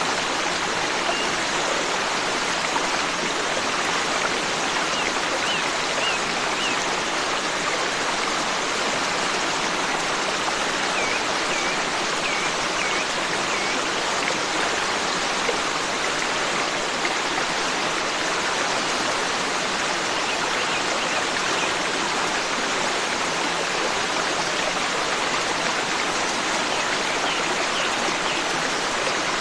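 Forest stream running steadily, with faint bird chirps in a few short groups over the water.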